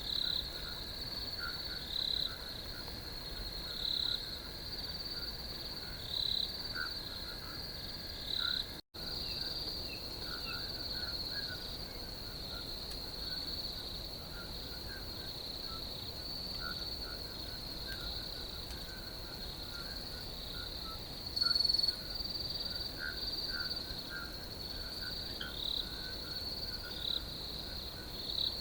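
Crickets trilling steadily in a high, continuous chorus that swells about every two seconds, with fainter scattered chirps lower down. The sound cuts out for an instant about nine seconds in.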